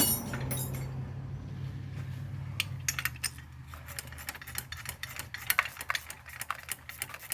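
Ratchet wrench clicking and small metal tool clinks as a bolt is turned out of the engine. A steady low hum is there for about the first three seconds, and the clicks come thickest after it fades.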